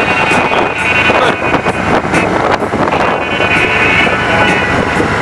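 Wind buffeting the microphone of a camera on a bicycle descending a mountain road, a loud, gusty rushing noise.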